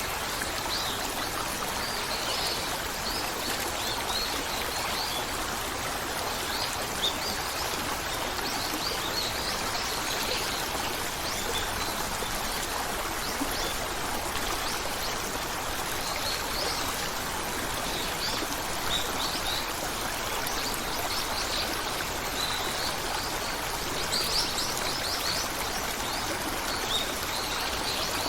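Steady rush of a flowing stream, with birds chirping here and there in short, high calls over it.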